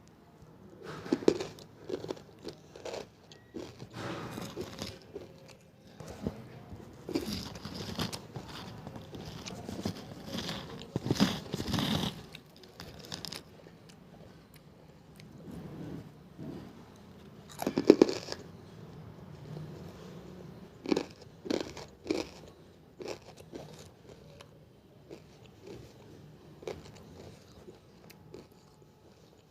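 Close-up crunching and chewing of hard, chalky pieces of banslochan (tabasheer, bamboo silica) in the mouth, very crunchy, coming in bouts with short pauses and thinning out toward the end.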